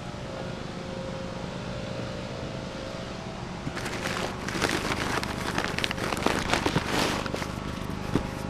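Crackling, rustling and rattling of discarded items being handled and rummaged through, starting about four seconds in, over a steady low hum.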